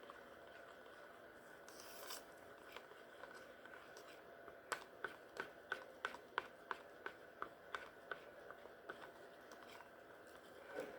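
Stir stick tapping and clicking against the side of a mixing cup while stirring pigmented UV resin, a run of about a dozen light, evenly spaced clicks at roughly three a second in the middle.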